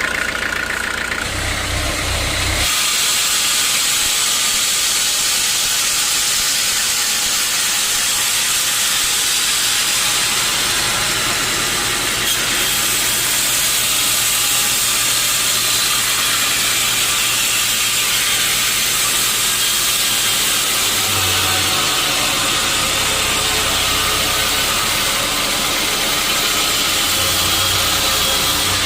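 Sawmill saw running through a teak log: a loud, steady hiss over a low motor hum that grows louder a few seconds in and then holds.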